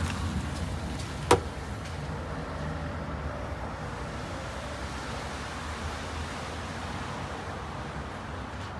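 Steady low rumble and hiss of road traffic going by, with one sharp click about a second in.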